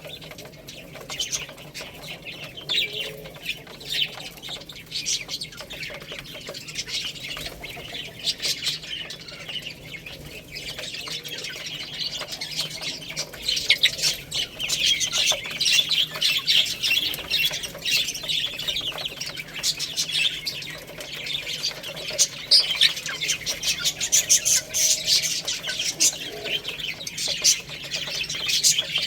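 A flock of baby chicks peeping, many short, high-pitched calls overlapping, growing busier about halfway through.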